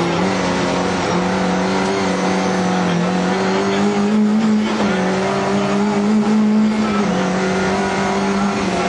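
Rally car engine at high revs heard from inside the cabin at full speed, its note climbing and dropping back a few times.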